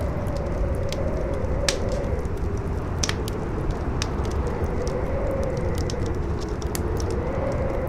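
Howling wind, a wavering tone that slowly rises and falls over a steady low rush, mixed with a wood fire crackling in frequent short pops, a few of them sharper than the rest.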